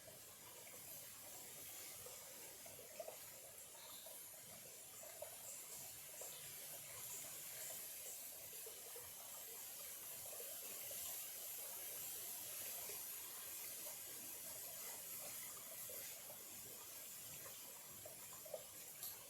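Small clear-water stream trickling faintly and steadily.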